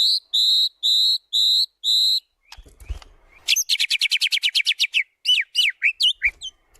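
White-rumped shama (murai batu) singing: five evenly spaced clear whistled notes at one pitch, then after a short pause a fast rattling run of about fifteen notes followed by a few short swooping notes. A low bump is heard about three seconds in.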